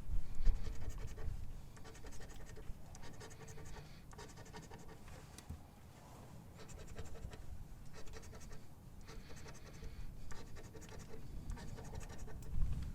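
Scratch-off lottery ticket being scratched, the latex coating rubbed off in many quick, rough strokes.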